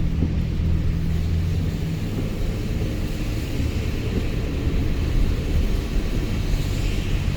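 Steady low rumble of a truck's engine and tyres while driving, heard from inside the cab, with a faint hiss over it.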